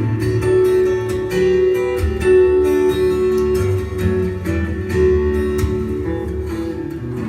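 Guitar instrumental played live: a run of plucked notes ringing over sustained chords.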